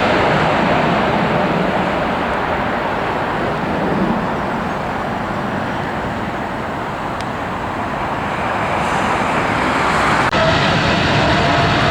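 Jet airliner engine noise: a loud, steady rush that eases a little around the middle. About ten seconds in it changes abruptly to engine noise with a steady whine in it.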